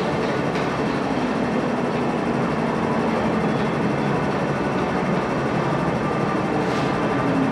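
Steady running noise of an MTR metro train in motion, with no clear rhythm or separate clatters.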